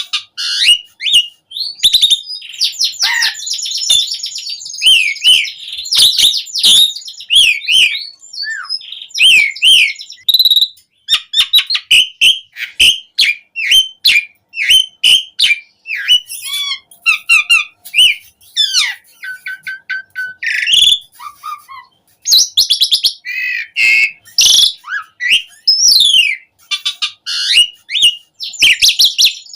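Asian pied starling (jalak suren) singing continuously in full song: a rapid, varied stream of whistles, chirps, glides and trills with hardly a pause, full of mimicked phrases.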